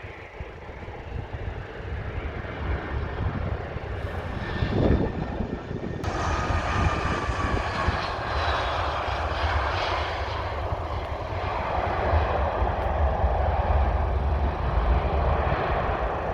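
Fixed-wing aircraft engines roaring past on the runway, the noise building in loudness with a faint whine that falls slightly in pitch as it passes. A brief low thump about five seconds in.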